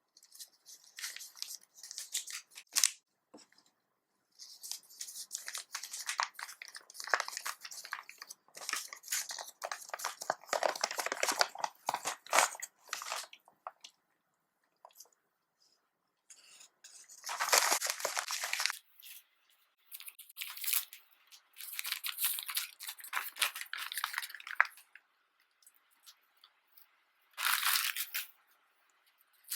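Crinkling and tearing of a food wrapping being handled and opened, in irregular bursts of rustling with short pauses between them.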